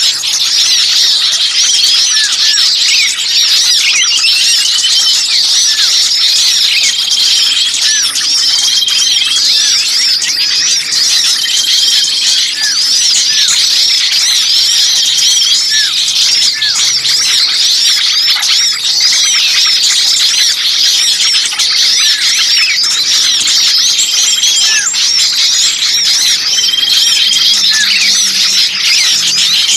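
Bird-lure recording of many small birds calling noisily at once in a dense, agitated chirping and squeaking chorus, the 'pinched' alarm of small birds as if trapped, played to draw other birds in. A short high whistled note repeats every couple of seconds through it.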